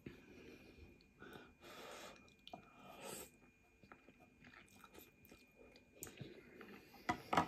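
A person chewing a mouthful of egg noodles, with irregular soft mouth noises and a few sharper clicks near the end.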